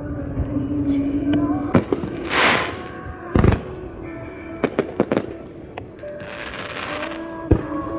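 Aerial fireworks bursting: several sharp bangs at irregular intervals, with two spells of crackling, about two seconds in and again about six seconds in, over background music.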